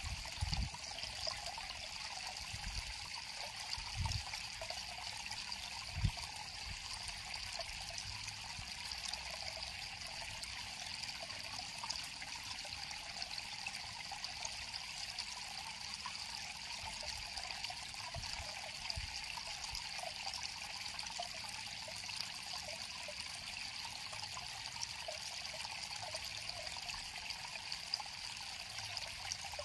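River water flowing with a steady trickling. A few brief low thumps come in the first six seconds, the strongest about six seconds in.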